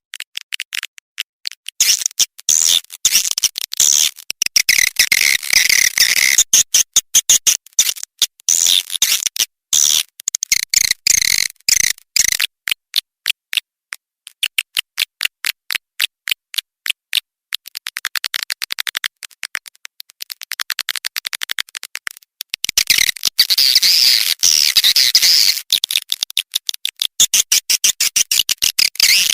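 Edible-nest swiftlet call sound, the kind played through a speaker to lure swiftlets: rapid trains of high chirping twitters. The trains slow to separate pulses around the middle, then speed up again.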